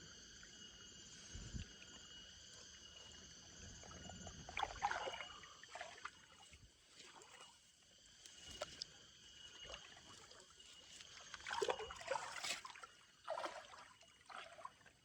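Steady high-pitched insect chorus, with irregular rustling and light watery sloshes from someone moving through wet vegetation, loudest about 5 seconds in and again around 12 seconds.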